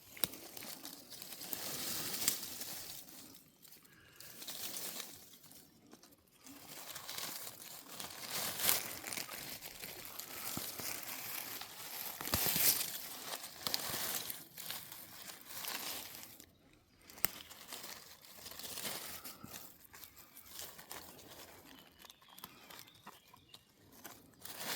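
Dry leaf litter rustling and crackling in irregular bouts, with short pauses between them.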